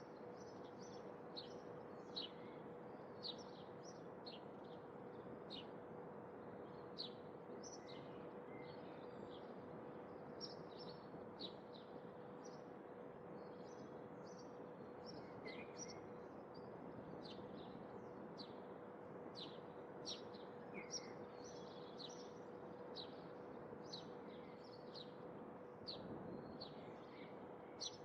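Small birds chirping, many short high calls coming several times a second, over a faint steady background hiss with a low steady hum.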